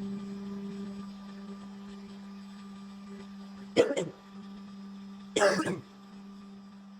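Two short coughs, about a second and a half apart, over a steady low hum.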